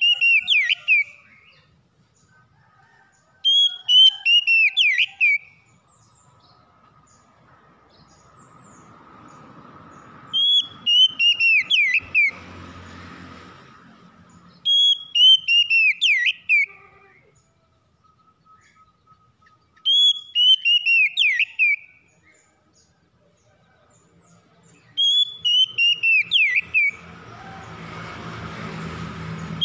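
Oriental magpie-robin (kacer) song: one short phrase of loud whistled notes sliding downward, repeated almost identically about every five seconds. A low rushing noise swells up twice beneath it, midway and near the end.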